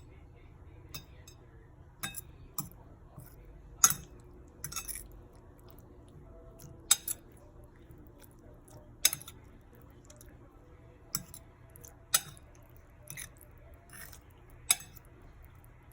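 Fork clinking irregularly against the side of a bowl while stirring egg into tuna chunks, about a dozen sharp clinks a second or two apart, the loudest about four seconds in.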